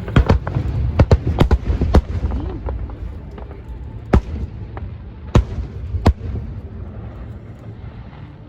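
Aerial fireworks bursting: a quick run of sharp bangs in the first two seconds, then single bangs a second or so apart. A low rumble lies under them and dies down toward the end.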